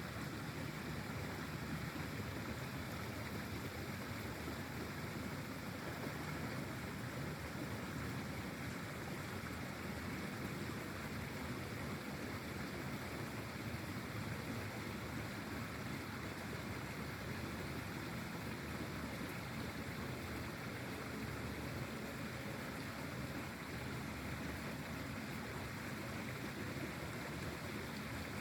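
Steady rushing of flowing pond water, an even hiss and rumble with no distinct splashes or calls.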